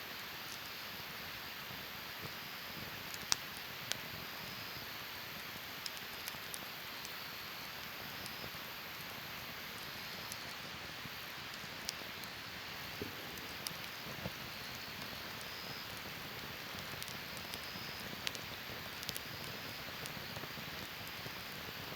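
Wood campfire burning with a steady hiss and scattered sharp crackles and pops.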